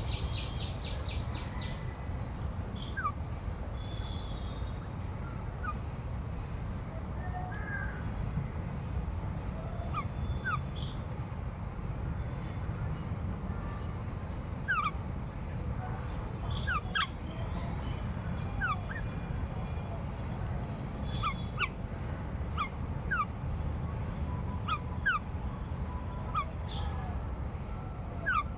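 Birds calling: many short, quick sweeping chirps, scattered at first and more frequent in the second half, over a steady low rumble.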